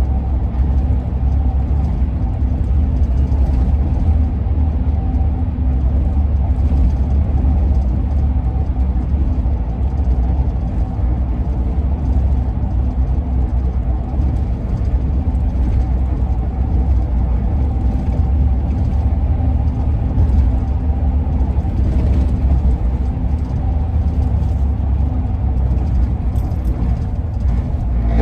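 Steady engine and road rumble heard inside the cabin of a 2001 Ford E-350 van on the move, with faint steady tones above the low drone.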